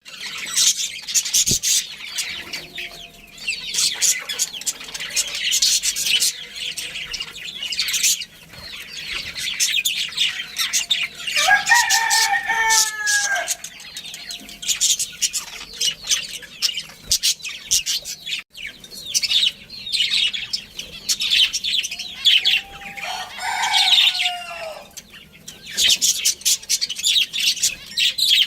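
A flock of budgerigars chirping and chattering continuously and fast. A rooster crows twice over it, each crow about two seconds long: once a little before halfway and once near the end.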